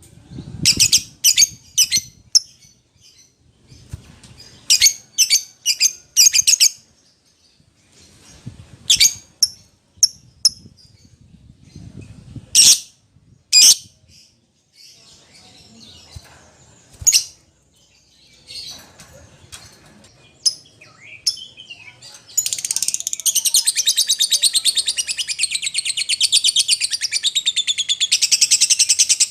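Lovebird calling with sharp, high chirps in quick clusters, then scattered single calls. About two-thirds of the way through it breaks into a loud, continuous rapid chatter that runs on.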